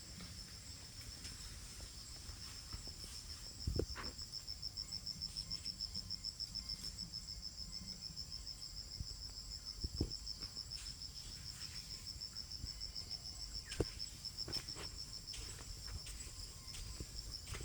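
Insects, likely crickets, give a continuous high trill that pulses in a fast, even rhythm. A few dull low thumps break in, about a third of the way in, in the middle and toward the end.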